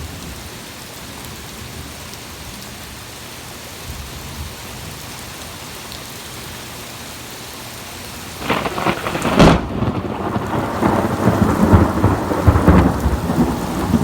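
Heavy rain falling steadily. Past the middle, thunder from a close lightning strike breaks in suddenly with a loud crack and rumbles on for several seconds.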